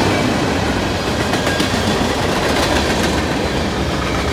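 Freight train's tank cars and boxcars rolling past, steel wheels clacking over rail joints amid a steady rumble.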